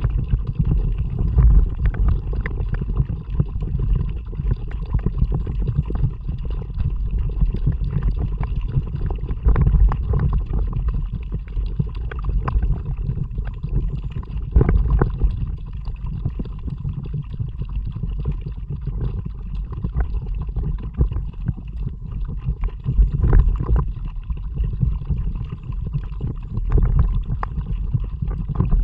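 Kayak paddling with an action camera: an uneven low rumble of wind on the camera's microphone, with scattered short splashes and gurgles of water from the paddle strokes.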